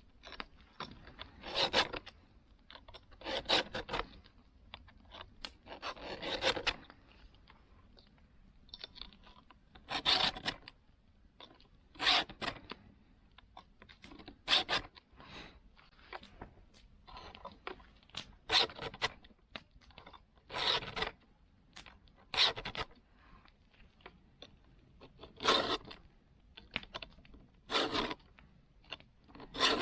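A saw being sharpened with a hand file: about a dozen separate short rasping strokes of the file across the teeth, roughly one every two seconds.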